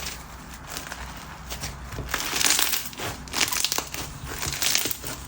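Crunchy bingsu slime (white glue slime packed with bingsu beads) being squished and pressed by hand, giving dense irregular crackling and crunching that grows louder about two seconds in.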